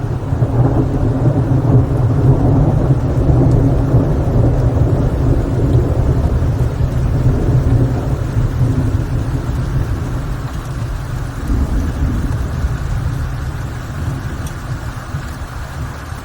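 A long roll of thunder: a deep rumble that swells over the first couple of seconds and then slowly dies away, over steady rain.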